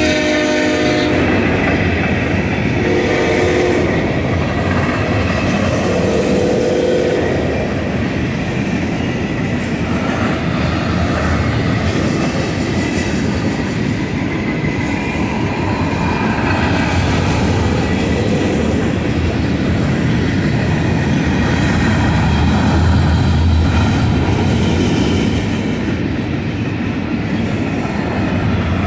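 Union Pacific freight train cars rolling steadily past, a continuous rumble with the wheels clacking over the rail joints. A train horn chord sounds for about the first second and briefly twice more within the first seven seconds.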